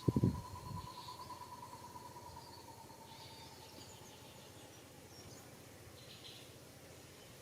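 Outdoor insect and bird sounds: a faint steady drone and scattered short chirps, with a few low rustling knocks in the first second.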